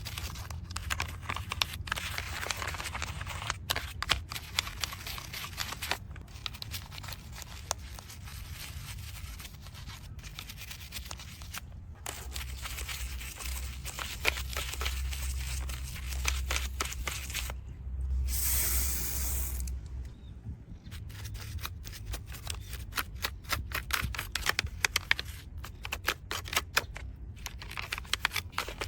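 Close-up cleaning work on a die-cast model truck: many small clicks and scrapes, with a hiss of spray lasting about a second and a half past the middle.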